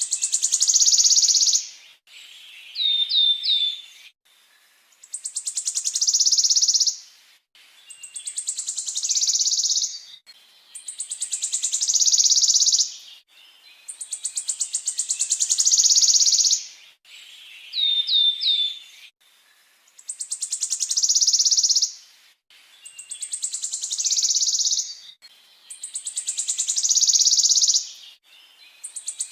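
Caged-songbird training recording of a rolling trill. A phrase of rapid notes speeds up into a loud, high trill, repeating about every two seconds. Twice, a quick run of three rising whistles comes in between.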